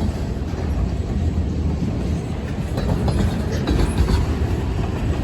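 Freight train rolling past: a steady low rumble with wheels clicking over the rail joints.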